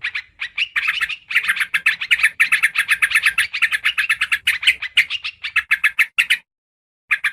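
Yellow-vented bulbul (trucukan) calling: a fast, chattering run of short notes, several a second, that breaks off about six seconds in and starts again near the end.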